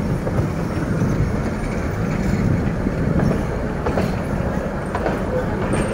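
Narrow-gauge passenger train running steadily as it crosses a river bridge, a constant rumble with light clicking of wheels over the rails. A brief thin squeal comes near the end.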